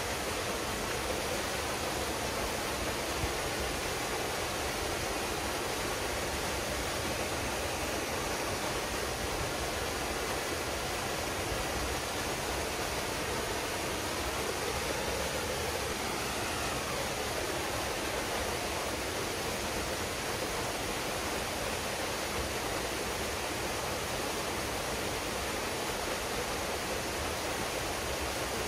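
Waterfall pouring steadily into a pool: a constant, even rushing of falling water.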